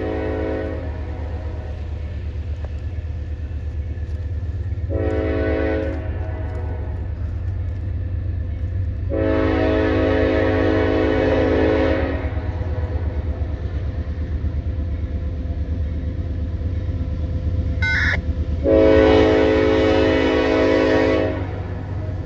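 Diesel locomotive sounding its Nathan K5LLA five-chime air horn in separate blasts: one ending about a second in, a short one around five seconds, a long one around nine to twelve seconds, and another long one near the end. A steady low rumble from the train runs underneath.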